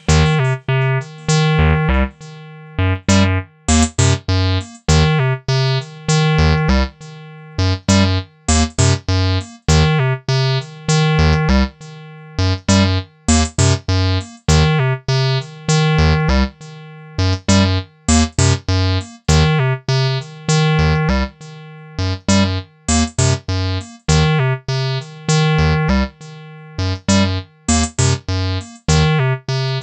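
An acid jam played on the AcidMachine: a looping, sequenced synth line of short, clipped notes repeats over and over at a steady tempo.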